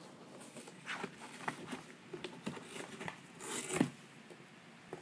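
Macaw scratching and clicking about in its nesting material: a string of dry clicks and rustles, with a louder scrape about three and a half seconds in.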